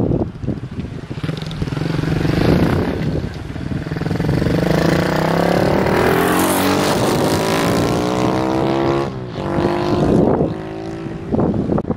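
Chinese-made clone single-cylinder engine of a Monkey/Gorilla-style minibike, breathing through an aftermarket Bike Parts Center muffler, running under way. The revs climb steadily for several seconds, fall sharply about nine seconds in, as at a gear change or a lift of the throttle, then rise again.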